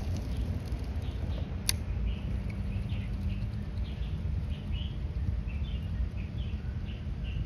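A small bird chirping in short, high, repeated notes, starting about two seconds in, over a steady low rumble. A single sharp click sounds just before the chirping begins.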